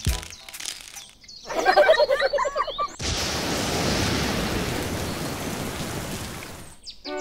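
Rain sound effect, a steady hiss of falling rain that starts suddenly about three seconds in and stops just before the end. It is preceded by a brief wavering, pitched sound and a few light clicks.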